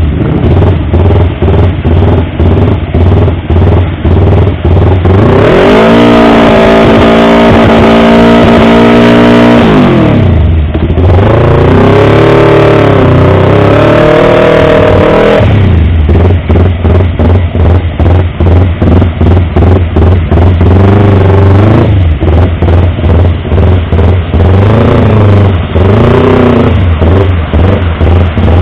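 Yamaha R25's 250 cc parallel-twin engine and exhaust, loud, revved twice. Each time the pitch climbs, holds for a few seconds and drops back to a low, pulsing idle.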